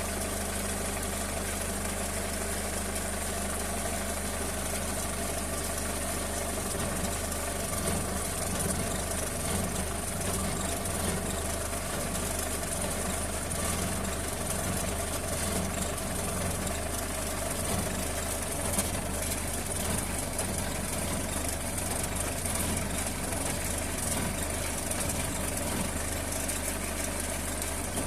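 Chainsaw engine running at a steady speed, without revving up or down.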